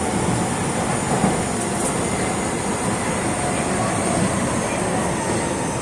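Osaka Metro 22 series subway car running between stations, heard inside the car: a steady rumble of wheels on rail with faint high whines over it.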